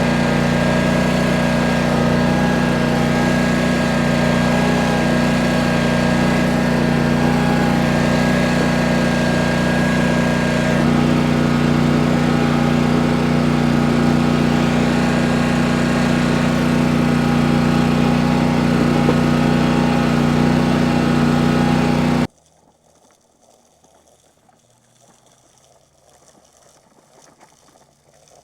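Small engine running steadily at a constant speed, then cutting off suddenly about three-quarters of the way through, leaving near quiet.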